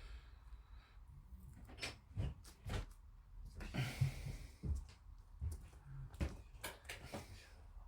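Scattered light clicks and knocks of injection-moulded plastic model-kit parts being handled and pressed together as a wing spar is test-fitted, with a short hiss about four seconds in.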